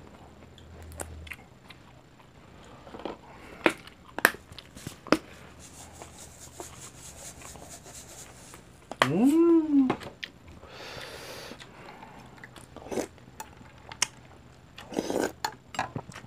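Chewing and mouth sounds of people eating, with scattered clicks and taps of spoons and chopsticks on bowls and the pan. About nine seconds in, a short hum rises and falls in pitch.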